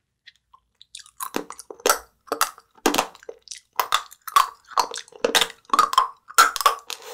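Close-up chewing and crunching of an edible hair brush made with pasta noodles. It is a run of crisp, irregular crunches, about two a second, starting about a second in.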